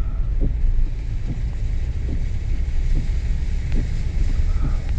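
Mercedes car driving slowly through deep floodwater, heard from inside the cabin: a steady low rumble with a few faint knocks.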